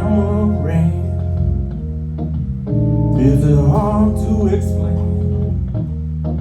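Live band music led by organ: the organ holds sustained chords that change every second or two. A wavering melodic lead line plays above them about halfway through.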